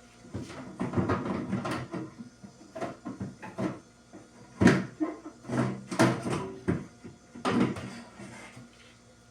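Irregular knocks and clatter of containers and shelves being handled inside an open refrigerator, with the sharpest knocks about halfway through and again near the end.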